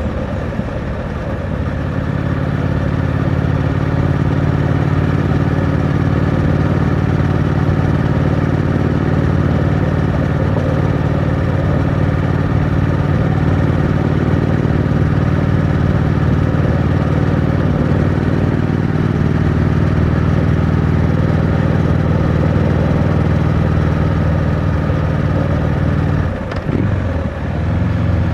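Triumph Scrambler 900's 900 cc parallel-twin engine pulling at steady revs through the stock exhaust, under a steady rush of wind and road noise. Near the end the engine note drops and sweeps back up, as in a gear change or a roll-off and re-open of the throttle.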